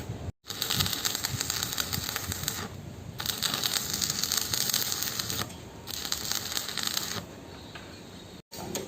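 Rapid metallic clinking and rattling of metal parts and tools, in three stretches of about two seconds each.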